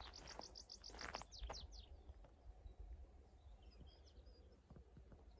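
Faint wild bird song: a quick run of about ten high repeated notes over the first second and a half, then a few faint twitters near the end.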